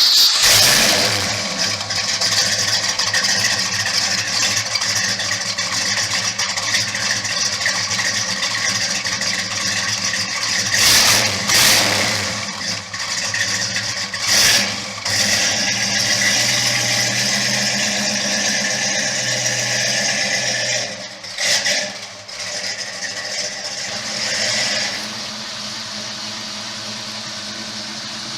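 1969 Ford Mustang Mach 1's V8 engine running, steady, with several short louder surges along the way that sound like brief revs.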